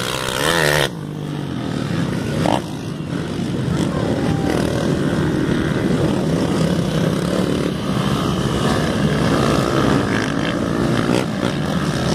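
Motocross bike engines revving hard on a dirt track, pitch rising and falling as riders open and close the throttle, with more than one bike heard at once. The sound changes abruptly twice in the first few seconds.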